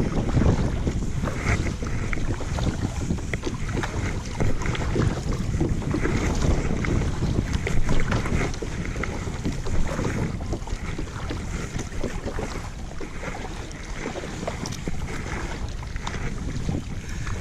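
Wind buffeting the microphone on a kayak out on the water, a steady low rumble with scattered small splashes and knocks.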